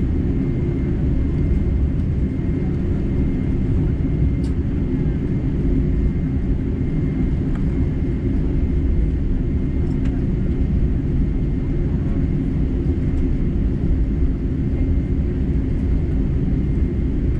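Steady cabin noise inside a Boeing 747-8 on the ground after landing: a low, even rumble from the engines at idle, with a faint steady high whine.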